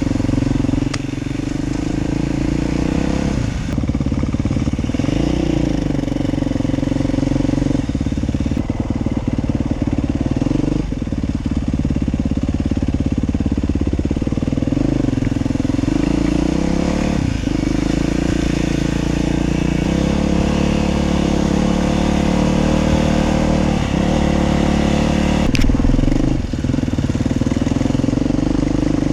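Dirt bike engine running under way, its pitch rising and falling as the throttle is worked, with one brief sharp knock near the end.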